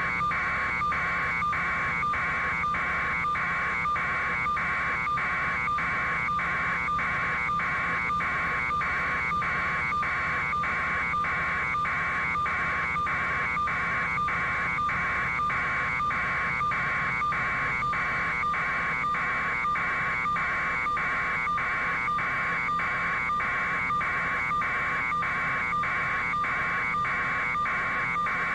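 Electronic warning buzzer sounding steadily, broken by short gaps about twice a second.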